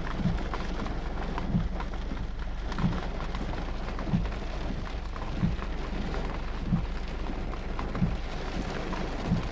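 Heavy rain with a steady rush, and a dull low thump repeating evenly about every one and a quarter seconds.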